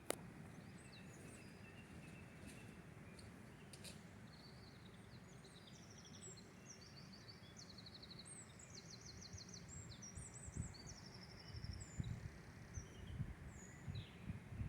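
Faint birdsong: several birds give short, high trilled phrases and chirps over a steady low hiss. A sharp click comes at the start, and irregular low rumbling thumps grow over the last few seconds.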